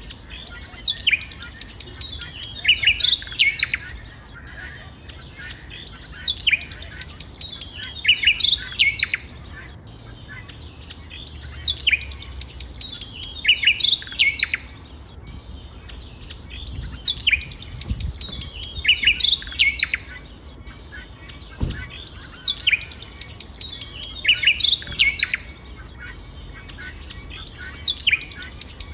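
A songbird singing the same phrase over and over, roughly every five to six seconds: each phrase opens with a high upward-sweeping note followed by a quick run of falling notes.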